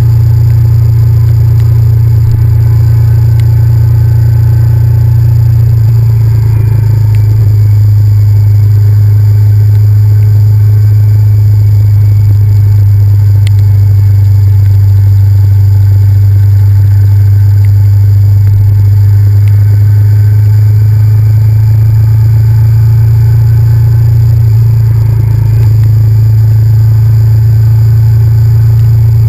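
Honda VTR1000F's V-twin engine running steadily under way, loud and close to a bike-mounted camera, its pitch shifting slightly about six seconds in and again near the end.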